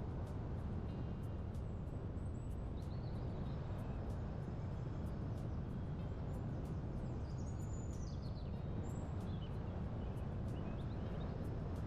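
Birds chirping in short high phrases, a few times, over a steady low rush of wind.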